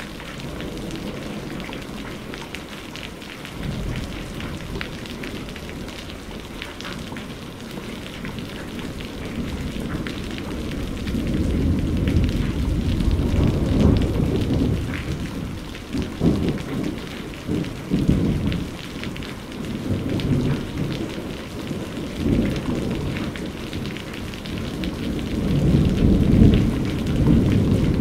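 Steady rain with rolling thunder. Deep rumbles swell up several times, longest and loudest through the middle and again near the end.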